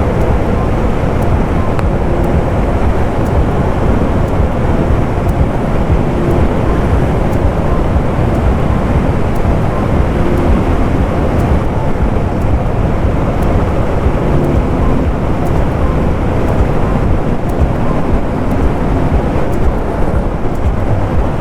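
Suzuki motorcycle engine running at a steady cruising speed on a gravel road, its even note under a loud, constant rush of wind and road noise.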